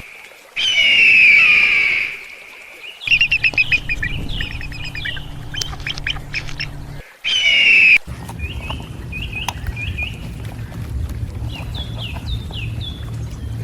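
Eagle calls: rapid runs of high chattering notes and two long high screams, each cut off suddenly. In the later part, short high calls over a low rumble.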